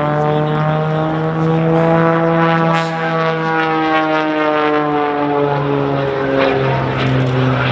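Edge 540 aerobatic plane's six-cylinder Lycoming engine and propeller droning steadily in flight, its pitch drifting slowly lower over several seconds.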